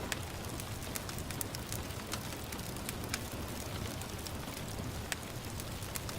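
Wood fire crackling in a fireplace, with sharp irregular pops and snaps, over a steady hiss of gentle rain.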